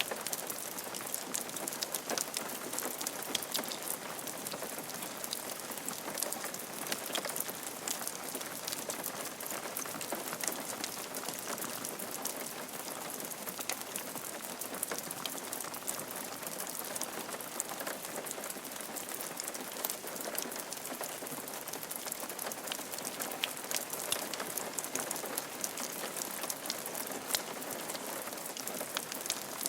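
Steady rain falling on a roof, a constant hiss dotted with many small drop ticks.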